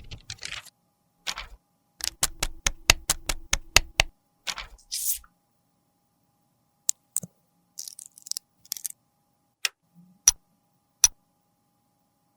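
Small hard cosmetic cases and tools being handled: a quick run of about a dozen taps, a short scrape, then a few scattered single clicks.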